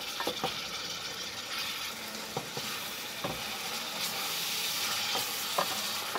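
Chopped tomatoes and onions frying in oil with a steady sizzle as a wooden spoon stirs them, the spoon knocking lightly against the metal pot a few times. The tomatoes are being fried down until they soften.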